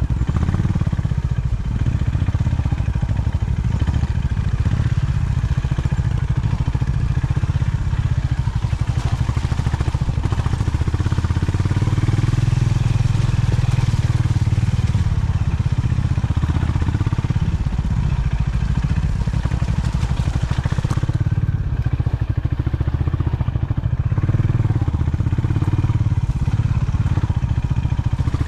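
Honda CB350 H'ness's single-cylinder air-cooled engine running steadily under way, growing a little louder about halfway through and again near the end.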